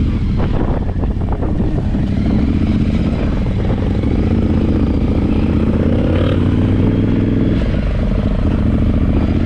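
Yamaha Ténéré 700 parallel-twin motorcycle engine running, its pitch rising and falling with the throttle, over a steady low rumble.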